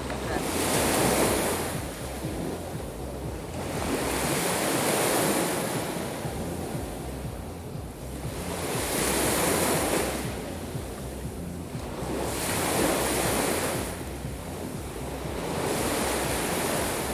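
Black Sea waves breaking and washing on the shore, one surge about every four seconds, five in all, each swelling and fading with a hiss.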